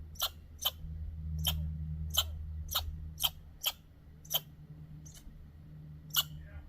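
A dog whining in short, high-pitched cries, about two a second, over a steady low hum.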